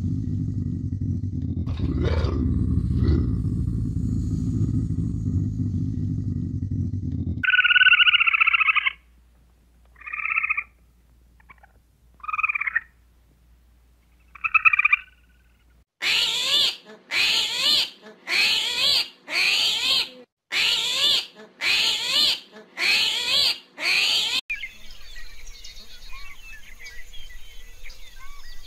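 A Eurasian lynx's low rumbling growl for about seven seconds. A grey squirrel follows with a few short chirping calls, then eight harsh calls about one a second. Faint outdoor ambience near the end.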